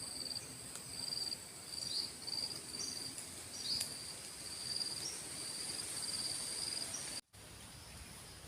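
Insects calling: a steady high-pitched buzz alongside a lower pulsing trill in short repeated trains. About seven seconds in, the sound cuts out for a moment and comes back quieter.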